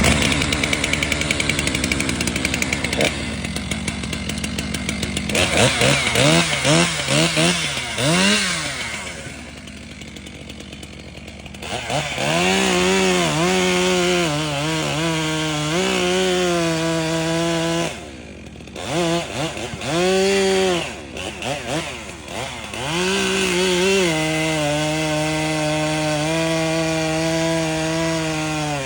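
Gas chainsaw cutting into a maple, the engine revving up and holding under load in repeated passes. It drops to a quieter idle for a few seconds about a third of the way in, and briefly again twice later.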